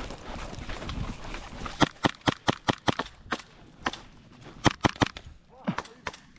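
Rustling at first, then an irregular string of sharp clicks and snaps, many in quick succession about two seconds in and a few more scattered near the end.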